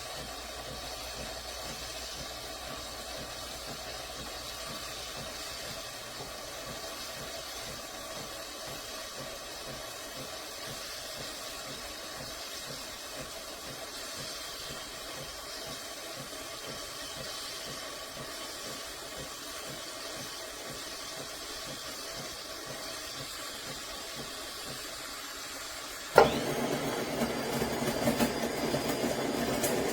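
Steady low hiss, then a sharp click about 26 seconds in as the De'Longhi Eletta Explore espresso machine's motor starts running with a louder mechanical whir.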